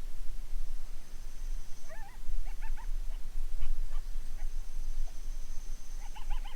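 A group of coyotes yipping and yodelling in the distance: short wavering, rising-and-falling yips in two bouts, about two seconds in and again near the end. They sound over a steady low rumble.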